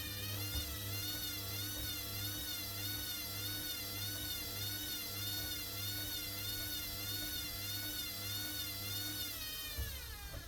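Motor of a Hoover WDYNS654D washer-dryer whining during a spin, its pitch wavering up and down in a regular wave over a low hum. Near the end the whine slides down in pitch and cuts off as the spin winds down.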